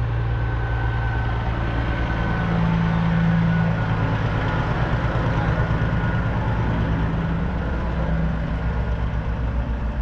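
Heavy diesel truck engine idling, a steady low throb with a slight swell in level a few seconds in. It cuts off suddenly at the end.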